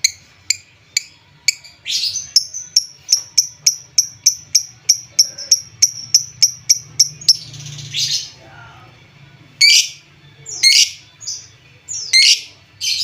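Lovebird calling: a few sharp high chirps, then a fast, even run of chirps at about three a second, then a handful of louder, harsher separate calls near the end.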